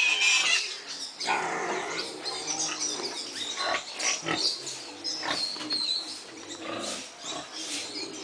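Pigs in a pen grunting and squealing, a run of short irregular calls.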